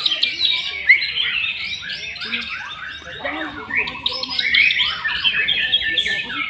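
White-rumped shama (murai batu) song: a fast, unbroken run of varied whistles, trills and chattering notes.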